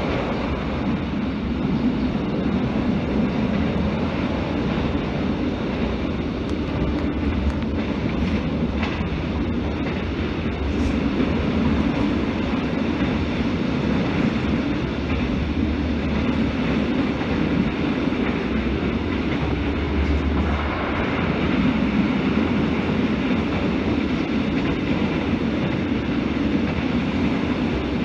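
Passenger train running along the line, heard from inside the carriage: a steady low rumble of the wheels on the rails.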